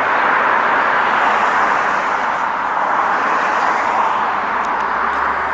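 Steady road traffic noise, an even wash of tyre and engine sound, with a low engine hum coming in near the end.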